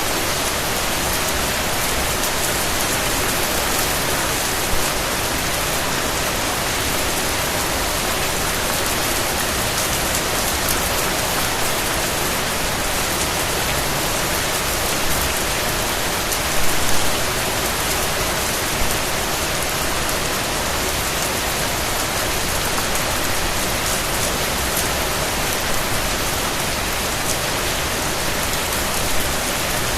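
Steady rain falling on a surface, a dense even hiss of raindrops with a few louder drop spatters now and then.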